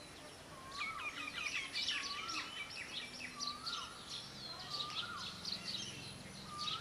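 Birds calling: one repeats a short whistle that rises and then drops, about six times, over a busy chatter of higher chirps from other birds.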